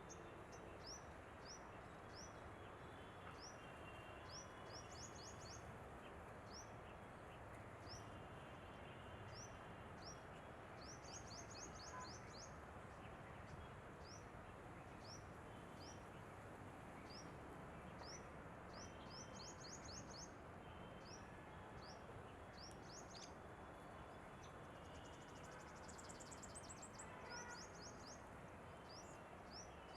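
Asian green bee-eaters calling: short, high-pitched chirps, some single and some in quick trilled runs of four to six notes, repeated every second or so over a faint steady background hiss.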